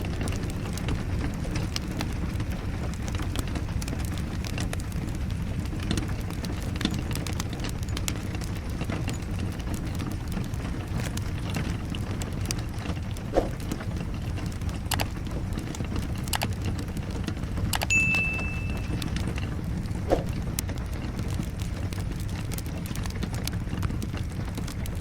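Wood fire crackling in a fireplace, with scattered sharp pops over a steady low rumble of flames and rain. About two-thirds of the way through there is a brief high whistle.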